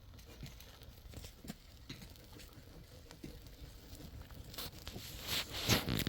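Scattered light taps and rustling handling noises, with a louder rush of scraping or rustling noise near the end.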